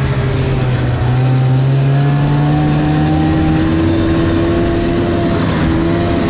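Snowmobile engine running steadily under way, its pitch climbing slowly through most of the stretch.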